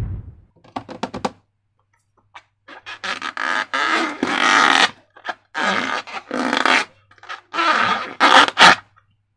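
Wet slime being squeezed and squished by hand, giving squelching, fart-like sounds in several long squishes with a few short sticky pops.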